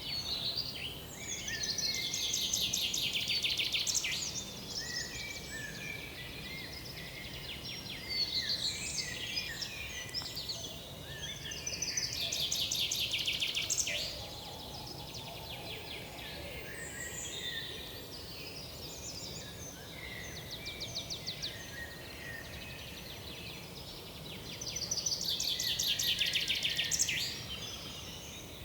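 Several woodland songbirds singing and calling, with a loud song of rapid repeated notes coming three times, each lasting about two to three seconds, over a steady low background rumble.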